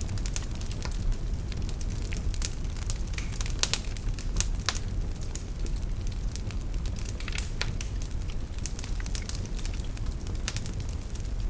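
Wood fire burning in a fireplace: a steady low rumble of the flames with frequent irregular crackles and pops of the logs.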